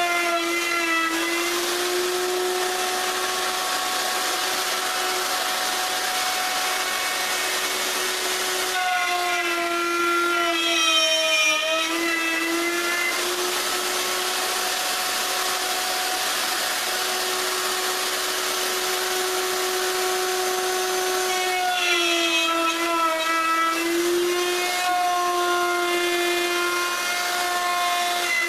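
Router motor running steadily as it trims the solid maple edge banding flush to the plywood top, its whine dipping briefly in pitch twice as the bit takes heavier cuts, then recovering.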